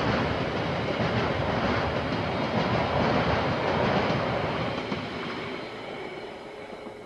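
A KiwiRail train running past on the line, its wheels rumbling and clattering on the rails; after about four seconds the sound fades steadily as it moves away.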